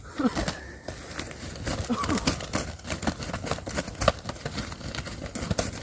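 Dry leaf litter rustling and crackling with many quick, irregular crackles, as something is moved or scuffled through the dead leaves on the forest floor.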